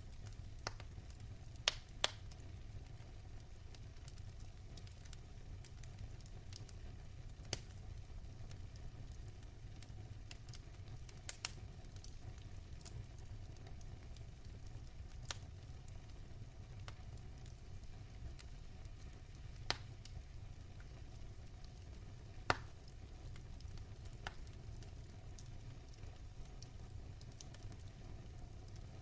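Wood fire crackling in a fireplace: a steady low rumble of the burning fire with scattered sharp pops and snaps every few seconds.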